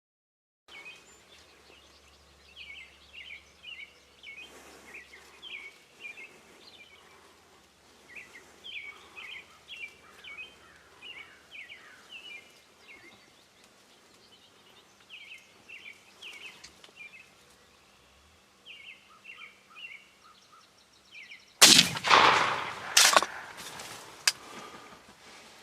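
Small birds chirping and singing in quick repeated phrases, then, about four seconds before the end, a single loud blast from a Remington 870 pump shotgun that rings out, followed about a second later by another sharp crack and a few smaller knocks.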